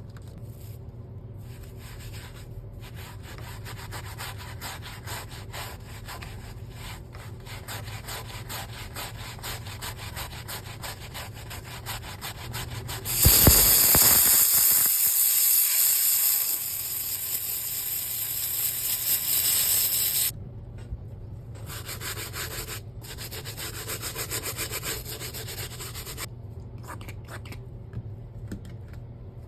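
Scrubbing a sneaker's insoles and soles by hand, many quick back-and-forth rubbing strokes. A louder hiss runs for several seconds around the middle.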